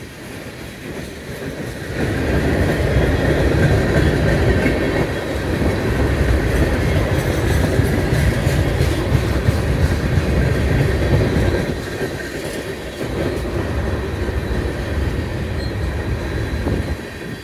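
Freight train's cars rolling past: a steady rumble and clatter of steel wheels over the rail joints, getting louder about two seconds in.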